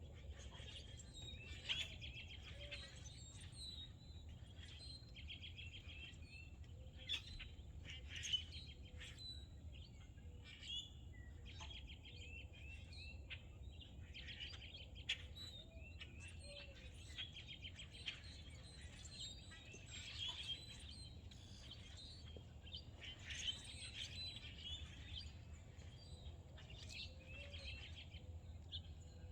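Several songbirds chirping and singing together, a busy run of short calls and quick trills, over a steady low rumble.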